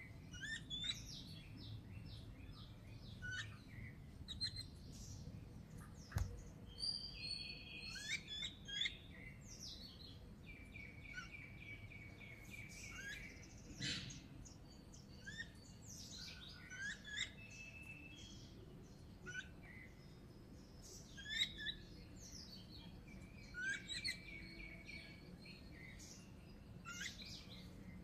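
Small birds chirping: runs of short, quick chirps with a few longer held notes, over a faint low background hum. A single sharp click about six seconds in.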